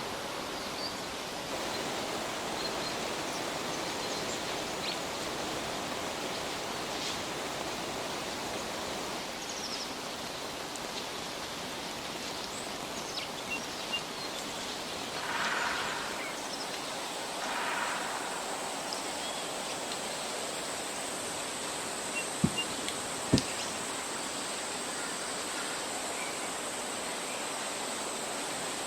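Steady outdoor ambient hiss. A thin, steady high-pitched tone joins about halfway through. A few faint ticks and two brief swells of noise come in the middle, and two sharp knocks follow close together later on.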